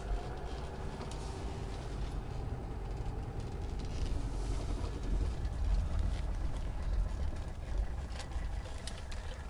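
Mercedes 300D five-cylinder turbodiesel and road noise heard from inside the car while driving, a steady low rumble. A few light clicks or rattles come near the end.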